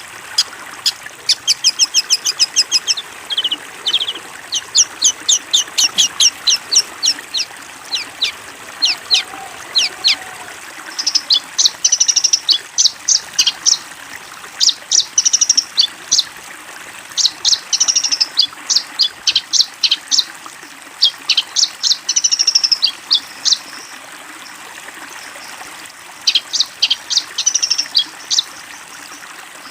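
A songbird chirping in fast runs of short, high, repeated notes, in phrases of one to two seconds with short pauses between them.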